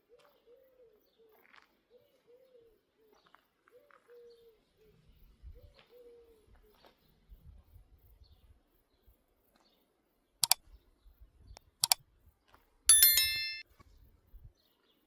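Faint pigeon cooing, a short falling call repeated every second or so. About ten seconds in come three sharp metallic knocks, the last ringing briefly.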